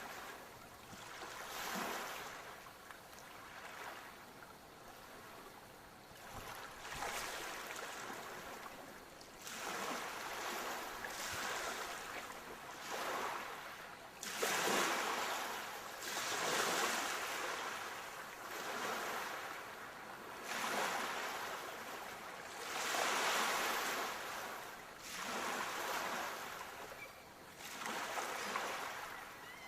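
Sea waves breaking and washing on the shore, one wave every two seconds or so, each a rising and falling rush of surf.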